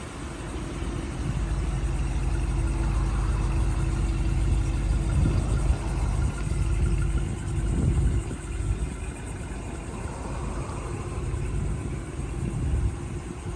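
Ram 2500 pickup's engine running at a steady idle, a low even hum that is louder for the first half and eases a little after about eight seconds.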